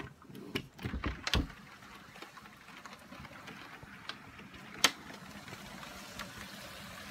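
Wind-driven rain against a window, a steady rushing hiss that grows a little clearer over the last couple of seconds. Knocks from the phone being handled come about a second in, with a sharp click near five seconds.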